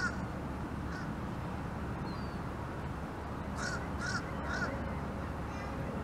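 Bird calls over a steady low background hiss: a short call at the start, another about a second in, then three calls in quick succession a little past the middle.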